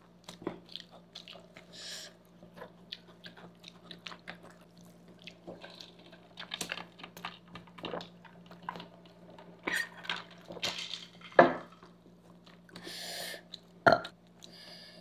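Close-miked chewing of pasta and noodles: irregular wet mouth clicks and smacks, a few of them louder.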